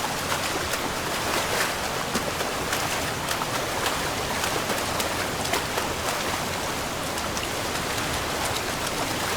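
Shallow river water rushing, with a steady hiss dotted with many small, sharp splashes and droplet ticks.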